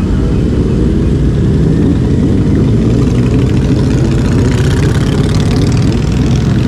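Motorcycle engine running steadily, with a spell of hiss a few seconds in.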